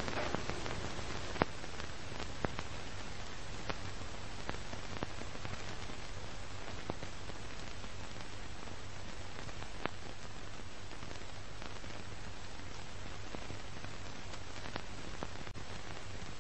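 Steady hiss over a low hum, broken by scattered clicks and pops: the crackle of an old film soundtrack.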